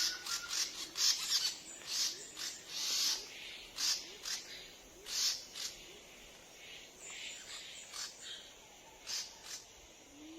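Forest birds calling: a quick series of short, high chirps, busiest in the first half and thinning out later, with faint short rising low notes repeating underneath.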